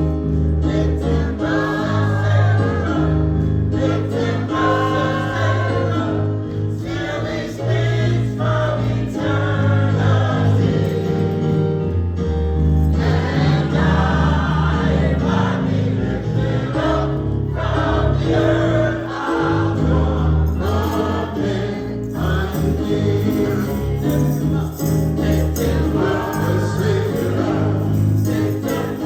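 Gospel choir singing with instrumental accompaniment, steady bass notes underneath.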